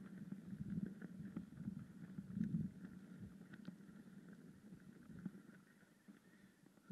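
Mountain bike rolling along a road: a low tyre rumble with scattered rattles and clicks from the bike, getting quieter toward the end.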